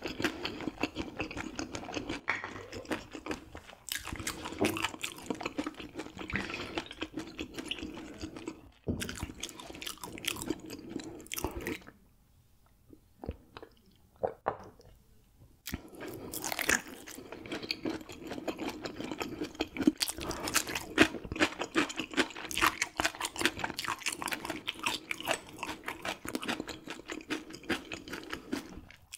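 Close-up chewing and crunching of raw gizzard shad eaten bones and all, with dense crisp crackles as the bones break. The crunching stops for a few seconds near the middle, then resumes.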